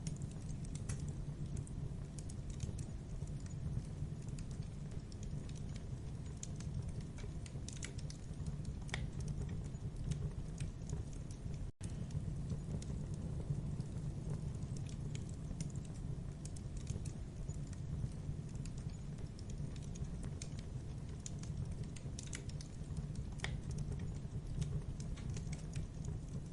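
Campfire burning: a steady low rumble of flames with irregular sharp crackles and pops from the wood. The sound cuts out for an instant about twelve seconds in.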